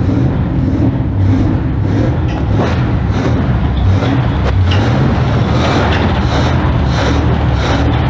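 1947 Cadillac Series 62's flathead V8 running steadily at idle, revived after sitting 47 years.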